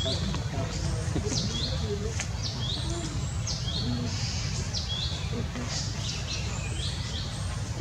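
Birds chirping, short high-pitched calls that sweep down and up, repeated several times a second over a steady low rumble.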